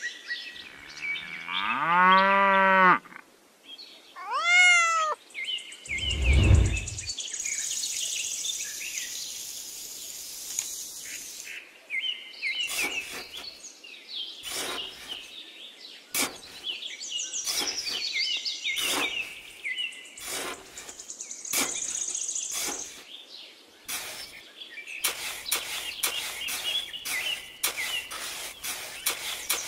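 Cartoon-style sound effects: a pitched tone that rises and falls, then a quick run of falling whistles and a low thud. After that, a small trowel scrapes and digs repeatedly into damp sand over a steady background of chirping birds.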